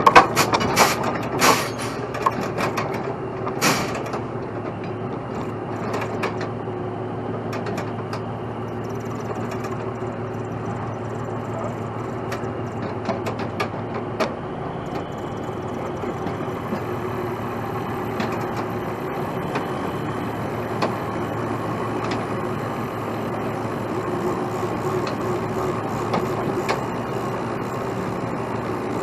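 Heavy truck diesel engine running steadily. Several sharp, loud knocks or bursts come in the first few seconds, with scattered lighter clanks after.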